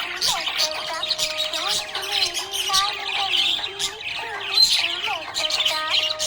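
Budgerigar chattering: a steady stream of quick, high chirps and warbles with a few sharper squawks.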